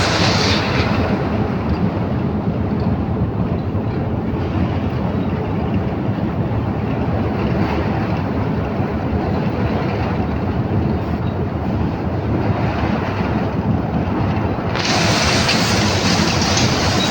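Asphalt mixing plant machinery running: a loud, steady, heavy mechanical rumble. A louder, brighter hiss joins about fifteen seconds in.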